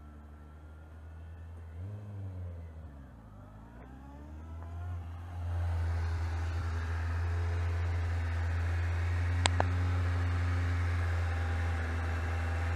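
Kawasaki Z750's inline-four engine revving up and down several times, faint at first. About five seconds in it turns much louder and steady, heard up close with a rushing noise, and two sharp clicks come about halfway through that loud stretch.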